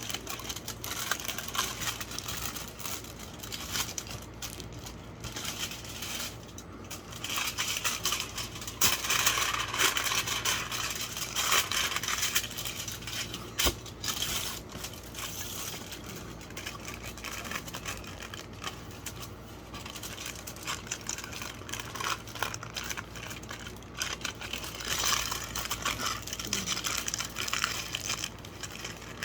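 Aluminum foil being crumpled and folded by hand, crinkling and crackling throughout, with louder stretches of scrunching about a third of the way in and again near the end.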